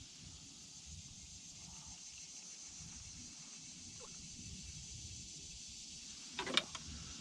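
Steady high insect chirring with a faint low rumble beneath, and a short sharp knock near the end.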